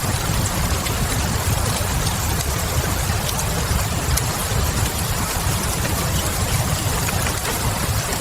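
Steady rain with a low rumble underneath, mixed with a wood fire crackling in faint, scattered pops.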